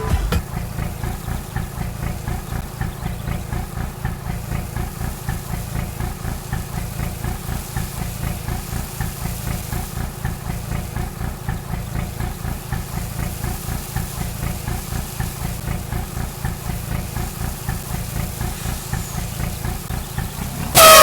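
Vehicle engine idling steadily with an even low pulsing beat. Near the end a loud pitched horn-like signal blares, the vehicle's reversing sound.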